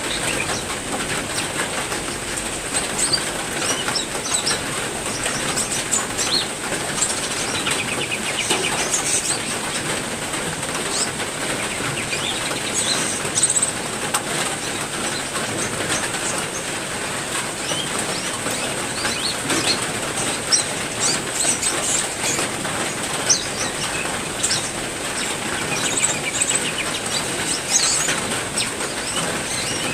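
Steady rain falling, with several kinds of caged songbirds chirping and calling in short, high bursts throughout.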